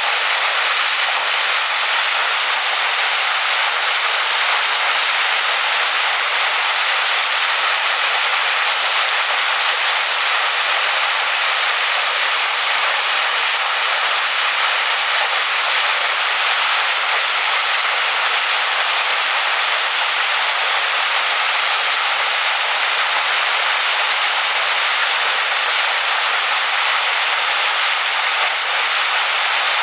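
Waterfall rushing onto stones: a steady, even hiss of falling water, bright and high with almost no low rumble.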